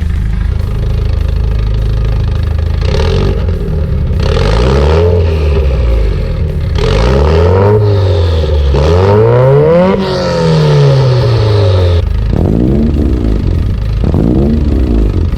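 Car engine revved again and again, the pitch climbing and falling in several long revs, then quicker short blips near the end.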